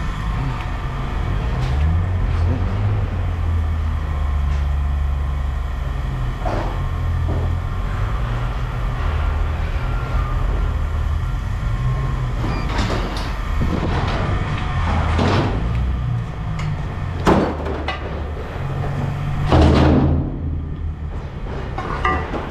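A vehicle's steady low rumble, with scattered metallic knocks and clunks; the two loudest clunks come about three-quarters of the way through, a couple of seconds apart.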